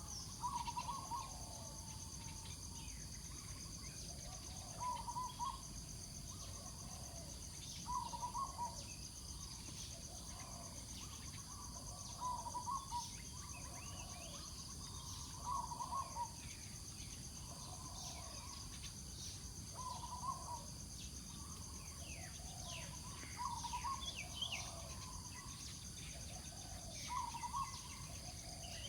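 A bird gives a short, repeated call phrase about every three to four seconds over a steady high-pitched insect drone, with scattered quick chirps from other small birds.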